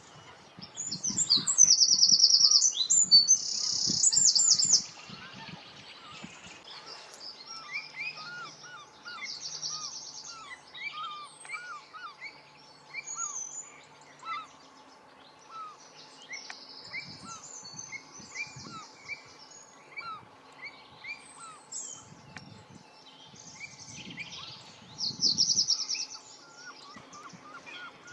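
Songbirds singing and calling: a loud, high, rapid trilled song twice, near the start and near the end, over many short chirps from other birds.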